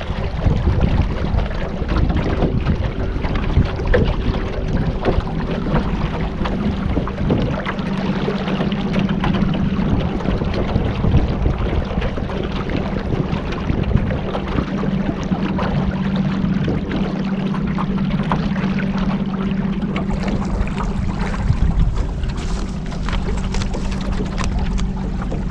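Motorboat engine running at a steady hum, with wind and water rushing past.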